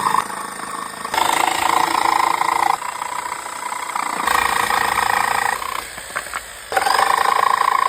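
Power tool motor running in several loud stretches that start and stop abruptly, with a few faint clicks near the end.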